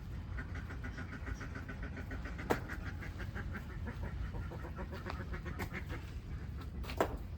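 Farmed ducks quacking in a rapid, chattering run, with two sharp knocks and a low rumble underneath.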